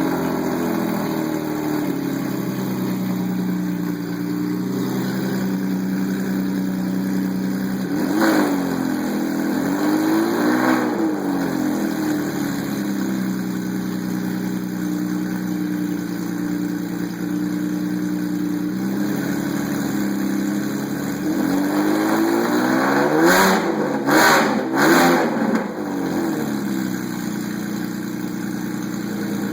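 Porsche 996 Carrera 2's flat-six idling loudly through headers and straight pipes with catalytic-converter bypass and no mufflers. The throttle is blipped twice with quick revs rising and falling back to idle, then three quick revs in a row come near the end.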